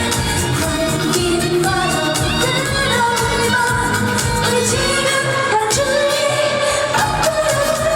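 A trot song performed live: a woman singing over a band backing track with a steady beat.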